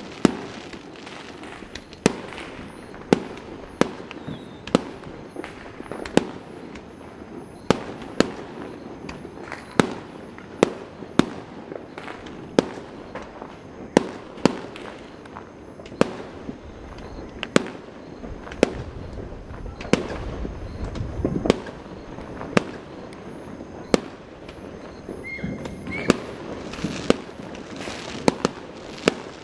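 Aerial fireworks going off in a continuous barrage: sharp bangs of varying loudness, roughly one to two a second.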